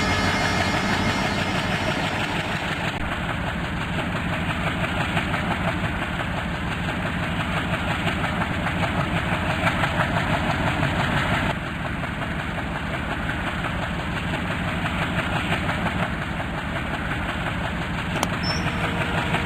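Passenger train running past, with a steady rumble of wheels and coaches on the rails.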